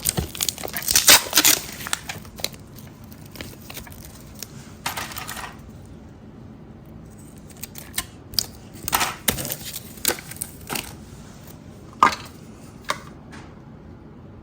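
Small handling noises as 3M double-sided tape is cut into strips and handled: scattered clicks and crinkling rustles, with a short tearing sound about five seconds in.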